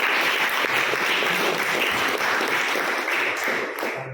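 Audience applauding, a dense patter of many hands clapping that drops away near the end.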